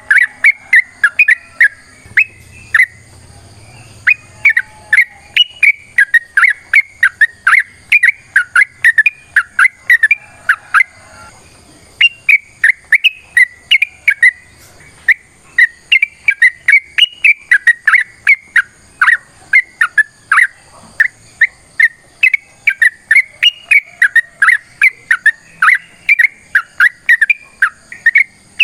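Yellow-vented bulbul (trucukan) singing in long, rapid runs of short whistled chirps, about three or four a second, with a couple of brief pauses.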